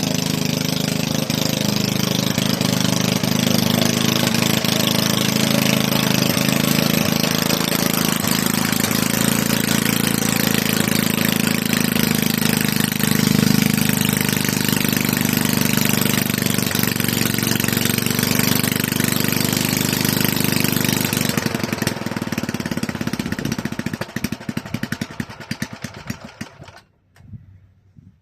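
Toro walk-behind mower's small four-stroke engine running steadily and really loud, then winding down and stopping over its last few seconds. It is a long-idle engine just brought back to life, running but still needing governor adjustment and tuning.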